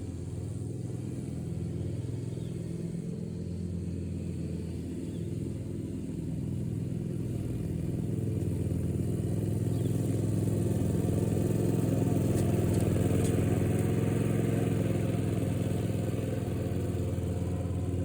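Lawn mower engine running steadily, growing louder partway through.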